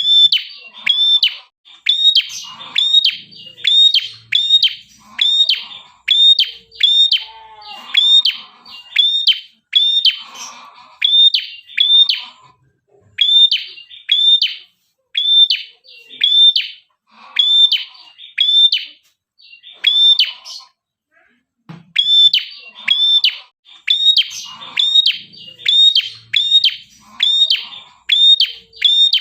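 A prenjak kepala merah, a small prinia-type songbird, singing in full voice (gacor): loud, sharp, high chirps repeated about two a second in long runs, with a pause of about a second near the two-thirds mark. Fainter, lower chattering calls come in among the chirps.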